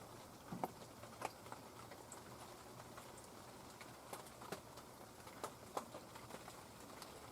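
Scattered light clicks and taps of hand tools and small engine parts being handled, at irregular intervals, the loudest about half a second and a second and a quarter in.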